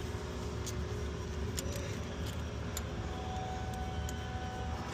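Steady low background hum with a few faint, light metal clicks of hand tools as a 10 mm bolt is worked loose; a thin steady tone joins about three seconds in.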